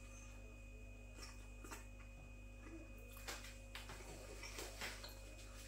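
A person faintly chewing a mouthful of burger, a few soft irregular clicks and smacks, over a steady low electrical hum.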